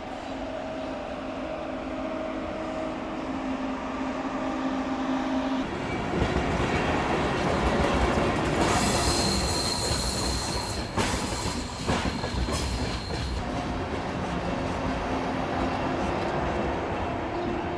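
A train running on rails. A steady hum at first, then louder rolling noise from about six seconds in, with a high, steady wheel squeal for several seconds in the middle and a couple of sharp clacks over rail joints.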